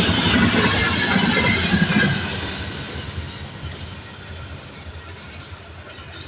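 Double-deck passenger train's cars rolling past at speed, wheels and rails giving a loud rumble with a ringing whine. The noise starts fading about two seconds in as the train moves away.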